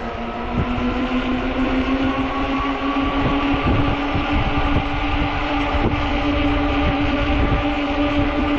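Ecotric 48-volt fat-tire e-bike's hub motor whining steadily, its pitch creeping slowly upward as the bike gathers speed. Wind rumbles on the microphone underneath.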